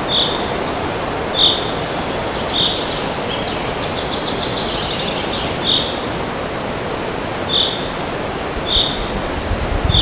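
Steady wind noise in a forest, with a small bird repeating one short high call about every one to two seconds and a brief rapid trill about four seconds in.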